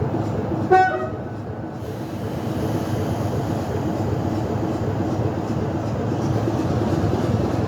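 Heritage train running up the incline, a steady rumble of wheels and engine, with a short, high toot about a second in.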